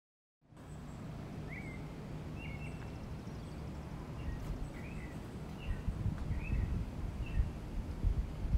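Outdoor ambience: a small bird chirps about six times, short calls spaced roughly a second apart, over a steady low rumble that grows louder and uneven near the end.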